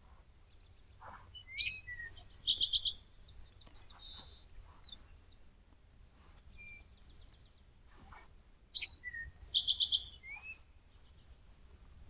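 A songbird singing the same short phrase twice, several seconds apart, each phrase of quick whistled notes ending in a rapid trill.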